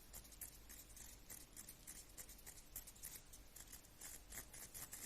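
Near silence with faint, irregular light clicks and rubbing: small plastic RC-car differential parts being handled and turned by hand.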